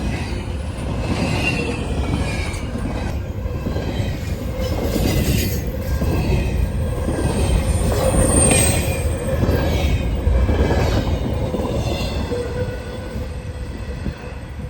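A train rolling past on the rails: a steady rumble of cars over the track with faint high-pitched wheel squeals, easing off a little near the end.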